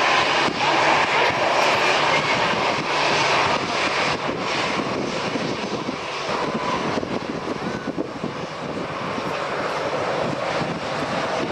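Jet airliner engines running loud, a steady rushing noise that eases a little around the middle.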